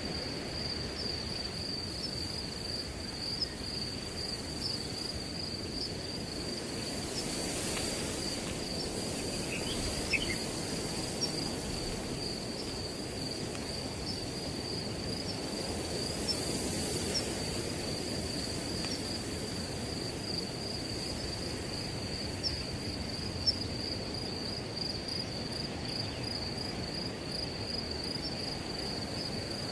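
A continuous, steady high trill of crickets over the low rush of wind, with the wind swelling into a brief hiss through the grass twice.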